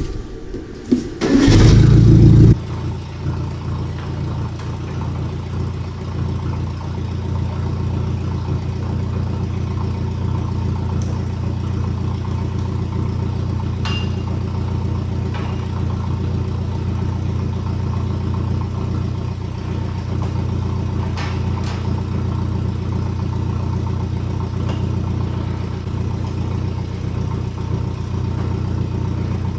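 Forklift engine starting with a short loud burst about two seconds in, then idling steadily.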